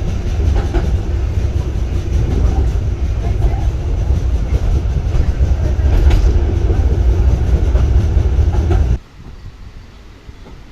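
Old ex-Basel Schindler tram running on worn track, a heavy low rumble with scattered clacks and knocks from the wheels on the rails. The tram is in a very sorry state and is held to about 20 miles an hour. The rumble cuts off suddenly about nine seconds in, leaving a much quieter background.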